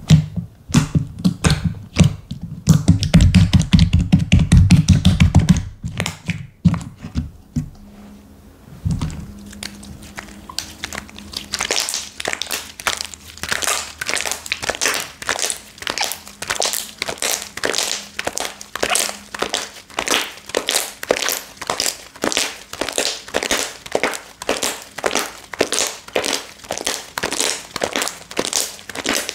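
Slime being worked by hand: dense, heavy squishing thuds for the first few seconds, then a steady run of crisp crackling pokes, about two to three a second.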